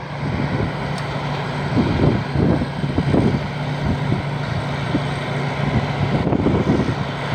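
Rice combine harvester with a Hino diesel engine running steadily under load while harvesting: a constant engine drone mixed with the noise of the cutting and threshing machinery.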